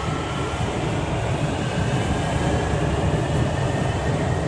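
Orange Line metro train running, heard inside the passenger car: a steady low rumble with a faint electric whine gliding slightly in pitch.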